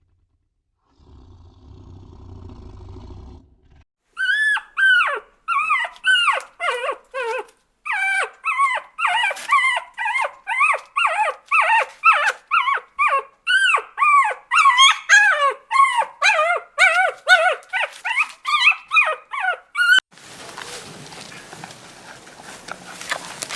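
An animal calling in a fast run of short yelping cries, two to three a second, each falling in pitch at its end, kept up for about sixteen seconds. A low rumble comes before it, and a rough hiss follows once the calls stop.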